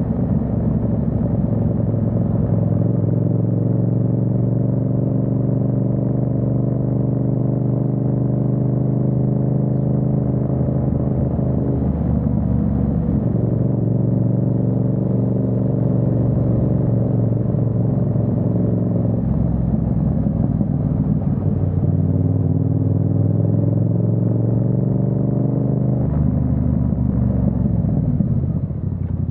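Yamaha MT-07's parallel-twin engine running under way. Its pitch climbs and levels with the revs, with breaks that sound like gear changes about twelve, nineteen and twenty-six seconds in, and a short drop in revs near the end.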